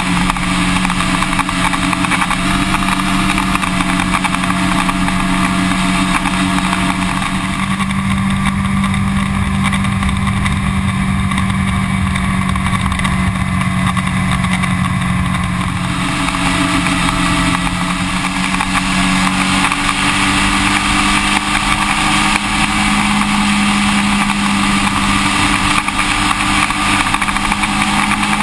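Yamaha R1 inline-four engine running at a steady cruising speed, heard from on board over a steady rushing noise, its note rising slightly in the second half.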